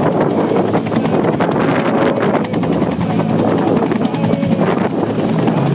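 Two Bell AH-1 Cobra attack helicopters hovering low and turning in place, their rotors beating fast and steadily with the engines running.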